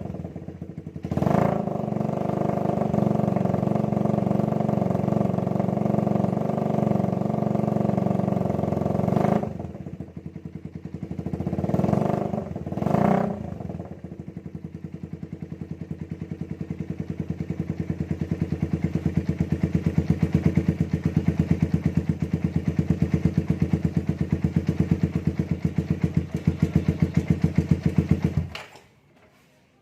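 Suzuki Satria FU's single-cylinder four-stroke engine sounding through a DBS aftermarket exhaust. It is blipped, held at raised revs for several seconds, then blipped twice more and left idling with an even pulse before stopping abruptly near the end.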